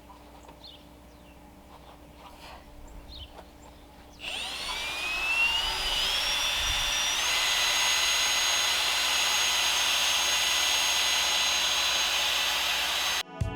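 A power tool's motor spinning up with a whine that rises in pitch for a few seconds, then running steadily at speed before cutting off suddenly near the end.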